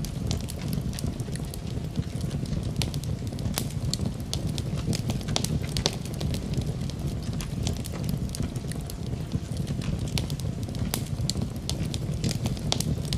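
Wood fire burning in a fireplace: irregular sharp crackles and pops over a constant low rush of the flames.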